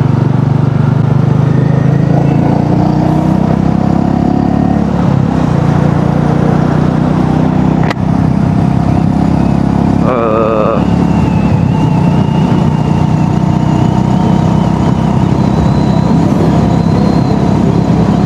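A motorcycle engine running steadily at low speed in traffic. About eight seconds in there is a single sharp click, and about ten seconds in a brief warbling tone.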